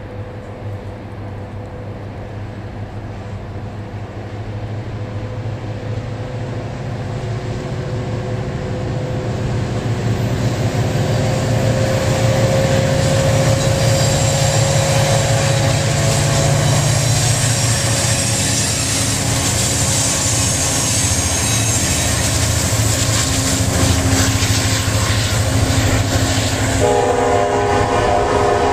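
Freight train with CSX diesel locomotives approaching and passing: the locomotives' low engine drone grows louder over the first dozen seconds. Freight cars then roll by with a steady clatter of wheels over rail joints. A horn sounds near the end.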